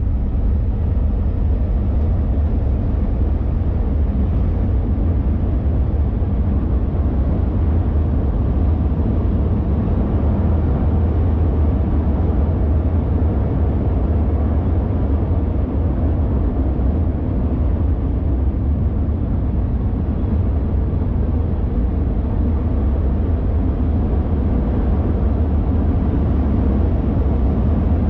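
BNSF freight train's cars rolling across a steel trestle overhead: a loud, deep, steady rumble of wheels on the bridge, heard from below.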